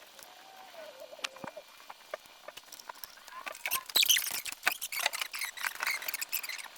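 Workshop noise from hand tools working on a car engine: a short wavering squeak, then from about four seconds in a dense run of metallic clicks, clinks and scraping.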